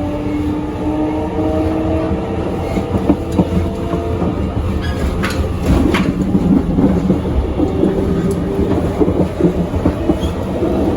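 JR Kyushu 883 series electric train running on the rails, a steady rumble with a faint motor whine of several held tones. A cluster of sharp clicks sounds about halfway through.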